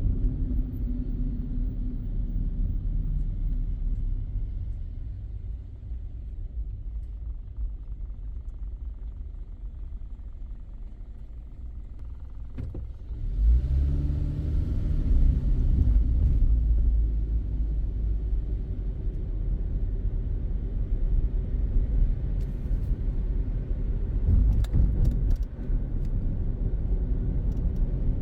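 Car engine and road rumble heard from inside the car. After a quieter stretch, about halfway through the engine note rises in pitch and gets louder as the car pulls away and accelerates, then settles into a steady drive.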